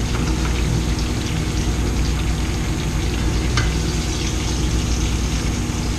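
Flour-dredged hamburger steaks sizzling in a hot skillet, a steady frying hiss over a low hum, with a light utensil tap about halfway through.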